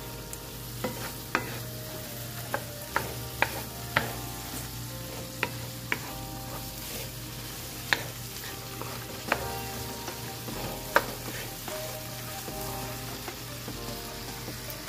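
Shrimp, snow peas and mushrooms sizzling in sauce in a frying pan while a wooden spatula stirs them, with sharp, irregular knocks of the spatula against the pan; the loudest come about eight and eleven seconds in.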